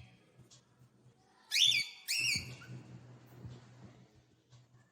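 Cockatiel giving two short whistled calls about half a second apart, each rising then dropping in pitch, over a faint low hum.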